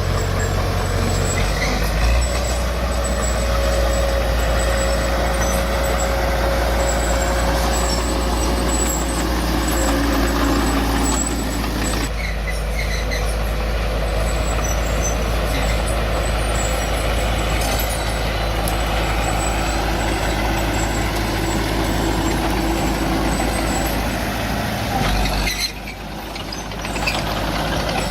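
Heavy diesel earthmoving machinery running steadily under load, with a short drop in the noise near the end.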